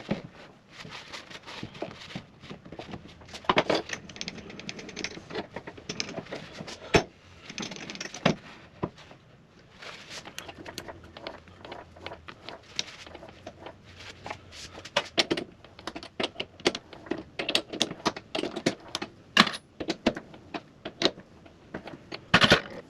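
Irregular metallic clicks, clinks and knocks of tools and metal parts being handled and set down on a workbench, with brief rustling in between.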